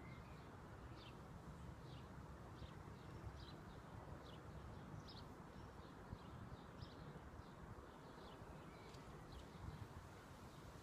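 Near silence with faint background hiss and a small bird's short high chirps repeating about twice a second.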